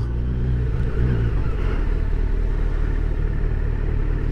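Kawasaki Z900 motorcycle's inline-four engine running steadily at low revs while filtering slowly through traffic.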